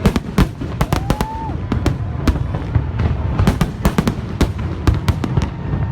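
Fireworks display: a rapid, irregular run of sharp bangs and pops, several a second, over a continuous low rumble of explosions.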